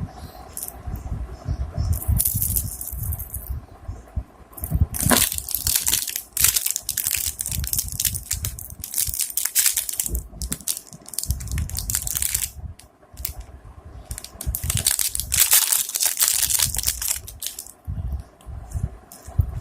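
Plastic packaging crinkling and rustling in irregular bursts as a fishing lure is unwrapped and handled, with low bumps from handling.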